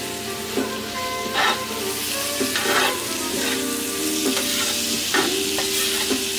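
Diced onions sizzling as they fry in a cast iron skillet, stirred with a metal spatula that scrapes across the pan several times.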